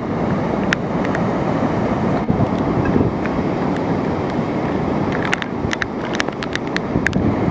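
Storm wind buffeting the microphone in a steady, heavy rumble, with a quick run of sharp ticks in the last couple of seconds.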